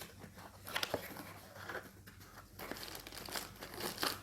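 Packaging crinkling and rustling as a product box is unpacked by hand, with a few light clicks and knocks.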